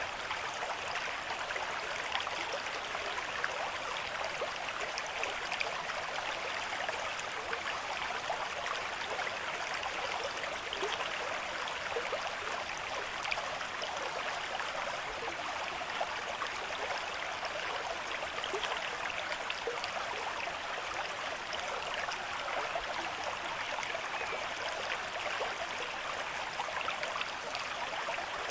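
Running water flowing steadily like a small stream: a continuous, even rush with fine flickers of splashing.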